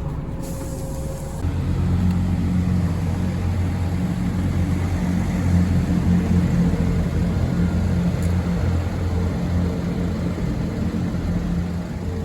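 Bus engine running under load, a steady low drone that gets louder about a second and a half in.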